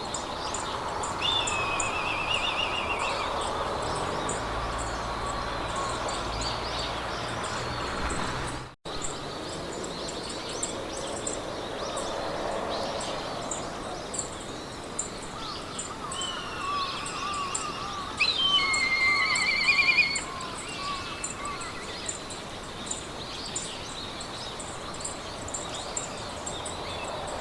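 Meadow ambience: several songbirds singing trills and warbling phrases over a soft haze of wind, with a fast, even, high ticking of insects throughout. The birds are loudest about eighteen to twenty seconds in. The sound cuts out for an instant about nine seconds in.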